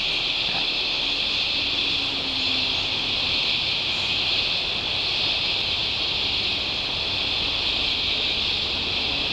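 Cicadas screaming in a steady, unbroken high-pitched drone, over a low rumble of distant engines.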